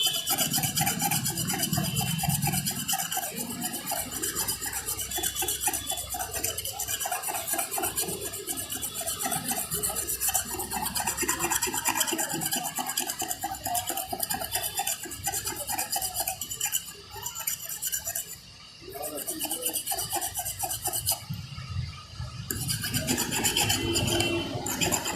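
Rapid, continuous scraping as a blade is rubbed over a copier's heat-fixing part to work off caked, hardened ink, the build-up that causes paper jams. The scraping pauses briefly a couple of times in the latter half.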